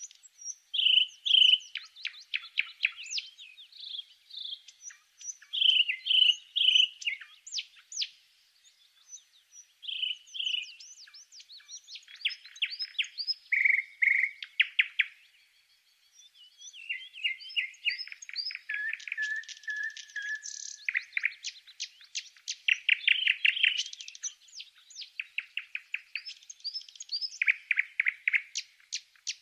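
A songbird singing on and on, a rapid run of trills, chirps and whistled notes, with a short pause about sixteen seconds in.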